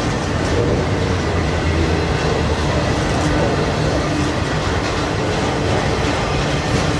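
Freight train of autorack cars rolling past: a steady rumble of steel wheels on rail, with light clacking over the rail joints.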